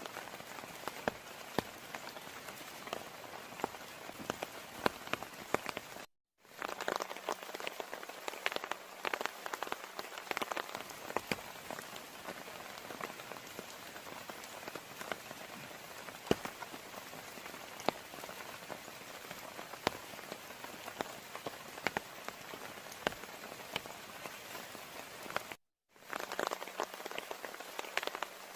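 Heavy rain falling steadily, with many sharp individual drops striking close by. The sound cuts out briefly twice, about six seconds in and near the end.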